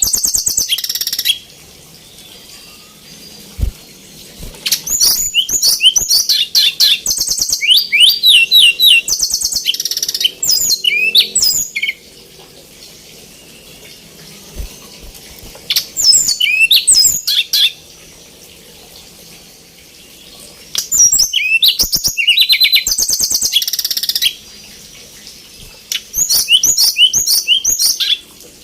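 Tledekan gunung (Sunda robin) singing in a highly excited state. It gives loud, rapid phrases of high trills and sweeping whistles in bouts of a few seconds, separated by short pauses.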